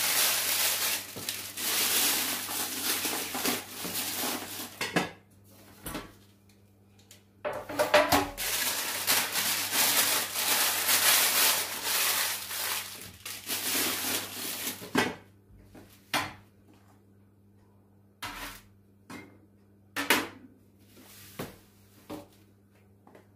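Dishes and cutlery clattering and scraping in two long busy stretches, then a few separate clinks and knocks.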